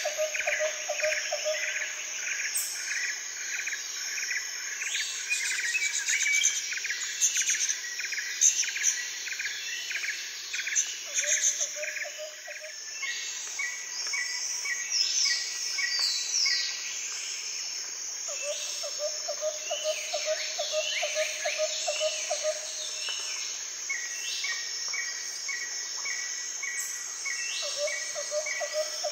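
Outdoor chorus of insects and birds. A steady high insect drone runs throughout, with fast rhythmic chirping in the first part. A lower pulsed trill comes and goes in a few bouts, and short bird chirps are scattered through it.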